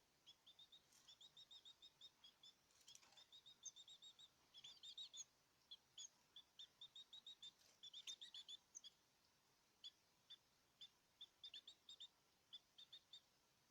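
Small caged birds chirping faintly: quick runs of short, high chirps with a few fuller twittering phrases in the middle.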